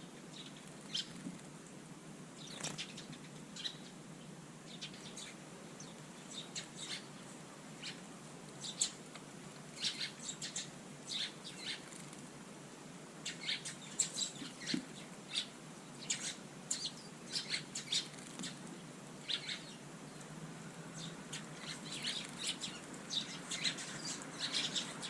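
Small garden songbirds chirping at a feeder, short high calls scattered irregularly, growing busier after the first several seconds.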